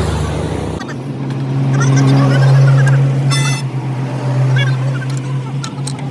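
A vehicle engine running steadily with a low hum. Its deeper rumble drops away under a second in. A short buzzy burst sounds about three and a half seconds in.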